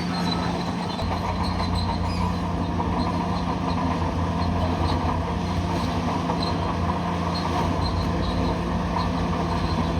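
Crawler bulldozer at work: its diesel engine running steadily, with the metallic clatter of its steel tracks.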